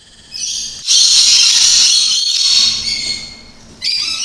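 Parrots screeching: a loud, high-pitched call starts about a second in and lasts over two seconds, and another begins near the end.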